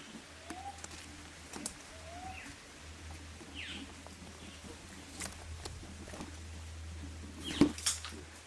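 Birds calling: a short rising chirp repeated a few times, with a couple of higher downward-sweeping notes. Scattered sharp taps and knocks run among them, the loudest a cluster near the end.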